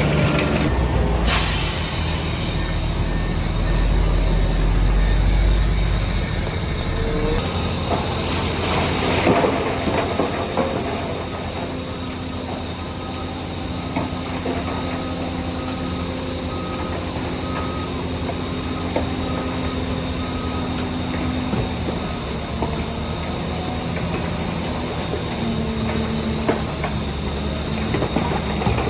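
Heavy diesel earthmoving machinery running: a bulldozer and dump truck at work on fill. There is a heavy rumble with a loud hiss for the first several seconds, then a steadier engine drone with a string of short, evenly spaced high beeps in the middle.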